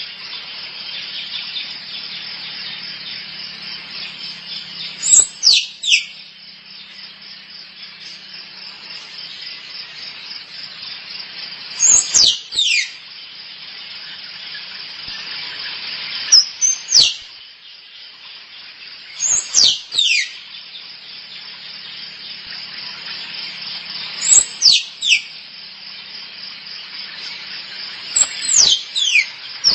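Squirrel mating calls: short bursts of two to four sharp, high chirps that each sweep steeply downward, repeated six times at intervals of about four to seven seconds. Underneath is a steady, pulsing insect chorus.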